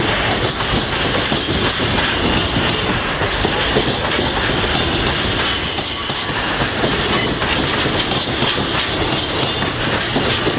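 Freight train rolling past, a steady loud rumble of wagons on the rails, with a brief high wheel squeal about six seconds in.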